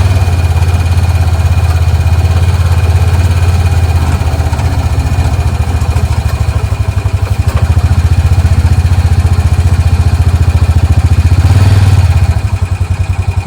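Kubota L3301 tractor's three-cylinder diesel engine running steadily, now starting and running again after a poor negative battery cable connection was cleaned up. It gets somewhat quieter near the end.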